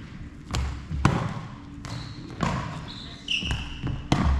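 Sharp ball impacts, about five in the space of four seconds, as a ball is hit and bounces during a doubles rally, with a brief high squeak about three seconds in.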